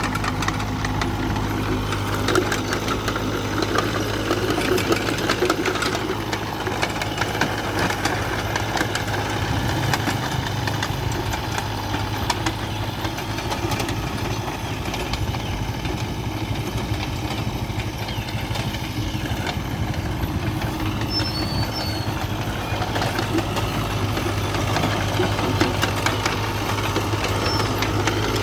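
A diesel engine running steadily at a constant speed.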